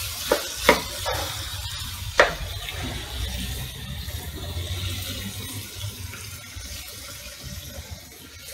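Liver stir fry sizzling steadily in a frying pan over a low flame, with a few knocks and scrapes of a spatula against the pan in the first couple of seconds.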